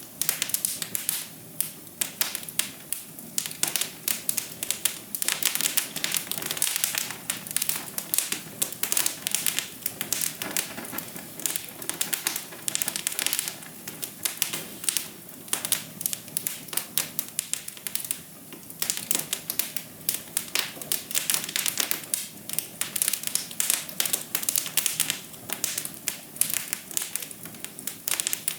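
Fire in a fireplace crackling steadily: a dense run of small snaps and pops over a soft hiss.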